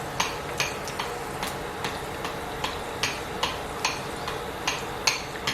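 Egg rolls deep-frying in hot peanut oil: a steady sizzle with sharp pops and crackles about two or three times a second, over a faint steady hum.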